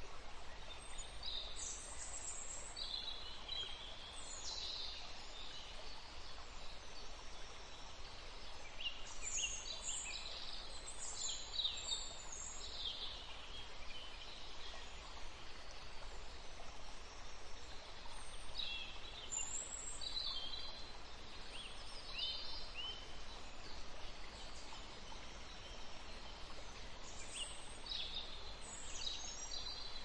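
Small birds chirping in scattered bursts of short, high, quickly falling calls over steady background noise.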